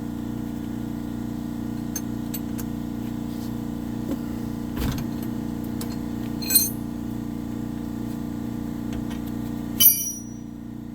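Air compressor running with a steady hum while wrench and socket click and clink against the driveshaft bolts. There are two sharp metallic rings, one about two-thirds of the way in and one near the end, after which the hum drops.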